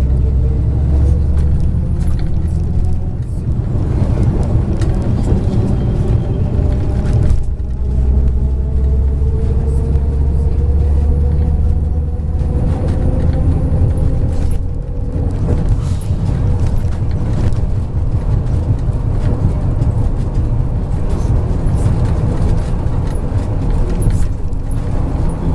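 MAZ 103 bus's engine and drivetrain running under way, heard from inside the bus: a heavy rumble with a whine that rises as the bus accelerates, drops about seven seconds in as it changes gear, climbs again and eases off around halfway.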